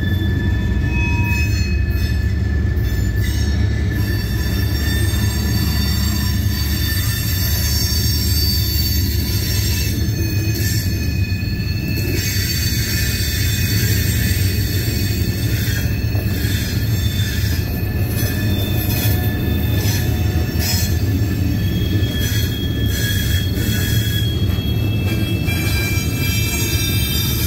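Loaded Herzog gravel hopper cars rolling past: a steady low rumble of steel wheels on rail, with thin high-pitched wheel squeals that come and go throughout.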